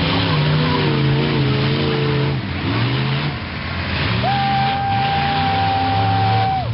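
1995 Ford mud truck's engine running and revving, its pitch rising and falling, with a steady high whine joining in over the second half and dropping off at the end.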